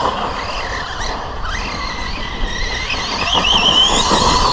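Brushless electric motor of a Team Associated Rival MT10 V2 RC monster truck whining as it drives, the pitch rising and falling with the throttle.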